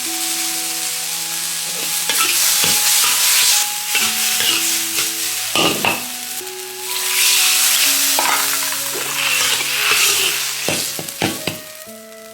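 Bamboo shoots and cured pork sizzling as they are stir-fried in a hot pan, with a spatula scraping and knocking against the pan. The sizzle swells about two seconds in, eases a little around the middle, and fades toward the end. Soft background music plays underneath.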